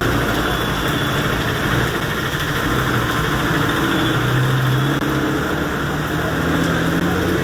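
A motor vehicle's engine running steadily under a continuous hiss; its low hum shifts a little higher about halfway through.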